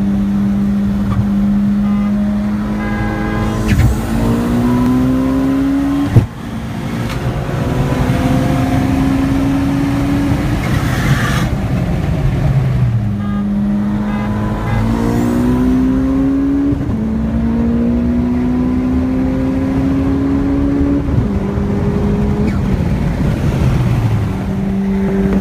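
Engines of turbocharged street-race cars, an Evo X and a 335i, holding a steady pitch and then accelerating hard, the tone climbing through several gear changes, twice over. There is a single sharp bang about six seconds in, during the first pull.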